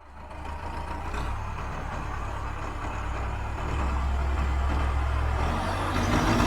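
A motor vehicle engine running with a steady low rumble, fading in over the first second and growing slightly louder partway through.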